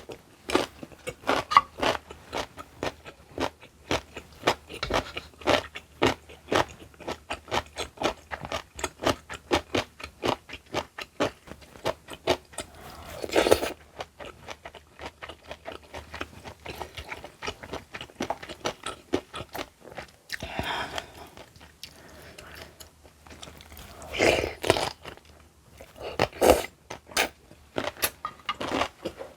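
Close-miked chewing and crunching of crisp kimchi: rapid wet crunches and mouth clicks, with a few louder bursts of biting and scraping now and then.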